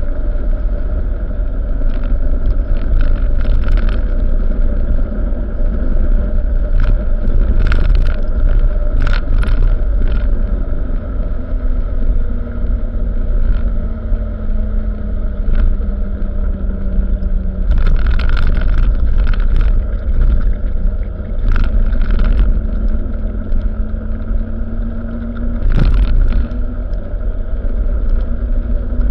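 A truck running: a steady low rumble with a slowly shifting engine hum and scattered knocks and rattles.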